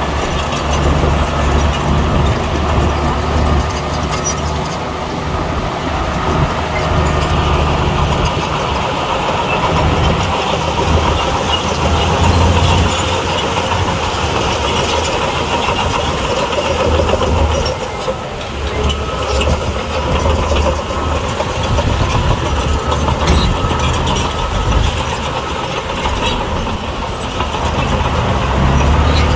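Bulldozer's diesel engine running under load, its level rising and falling as it works, with a steady clanking and rattling from the tracks and blade.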